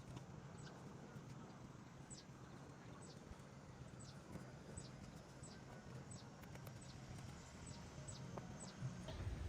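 A bird calling over and over: short, high notes, each sliding quickly down in pitch, about one or two a second, over a faint low hum. Louder low rumbling comes in near the end.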